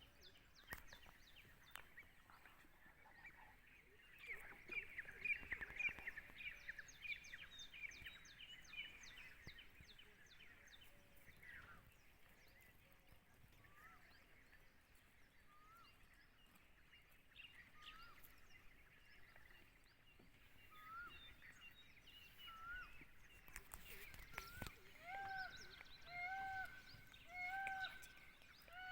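Birds calling: a patter of rapid chirps about four to nine seconds in, then a bird repeating a short rising note about once a second, louder over the last few seconds.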